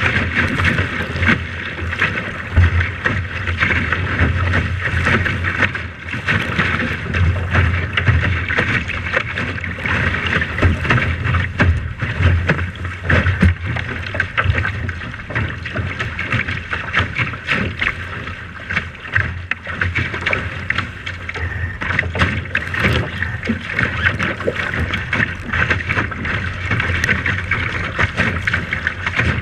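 Steady wind and water noise aboard a boat under way, with gusts buffeting the microphone.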